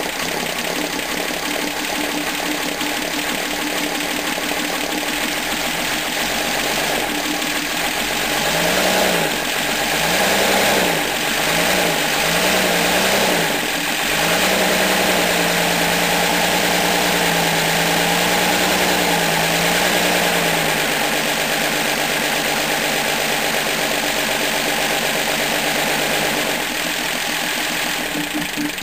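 Steyr A680GL truck's diesel engine running on its first start after an overhaul. It idles, is blipped up and down several times about a third of the way in, is held at raised revs for around six seconds, then settles back to idle.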